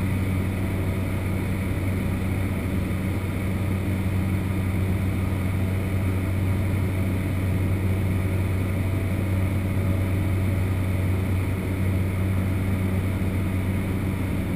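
Cessna 208 Caravan's single PT6A turboprop engine and propeller droning steadily in flight, heard from inside the cockpit as an even, low hum.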